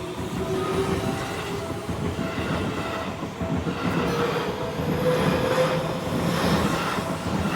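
A Seibu Line electric train passing over a level crossing, its wheels rumbling and clattering on the rails, with a motor whine that rises slowly in pitch. A steady warning tone from the crossing sounds through the passage.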